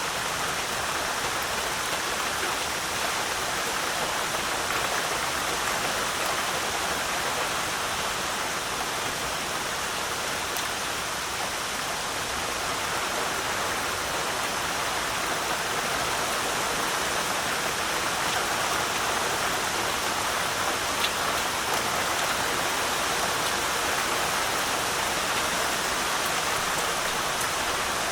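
Heavy rain falling steadily, an even hiss of dense rainfall with faint scattered drop ticks.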